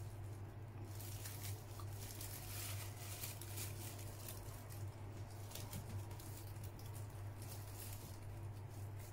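Close-up eating sounds: a soft cream bun being chewed, with crackly rustling of the plastic bag it is held in, over a steady low hum.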